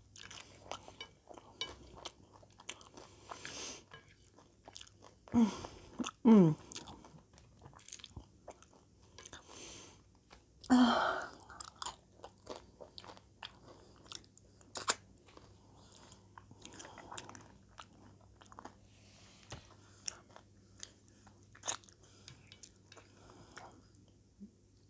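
Close-up chewing and crunching of nachos, many small sharp crunches and mouth clicks. A few brief falling voice sounds break in about five to six seconds in and again near eleven seconds.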